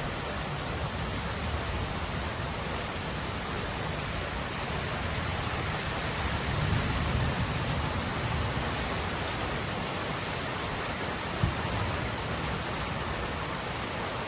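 Rain falling steadily, an even hiss, with a single sharp tap about eleven seconds in.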